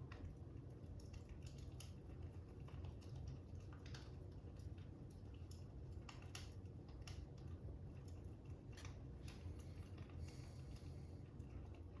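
Faint crackling fire: irregular snaps and pops over a steady low rumble.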